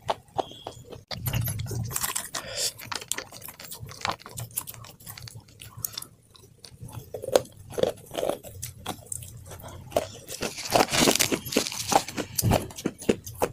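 A person biting and chewing crunchy food close to the microphone. Sharp crackling crunches are loudest in two spells, about two seconds in and again around eleven seconds in, with quieter chewing between.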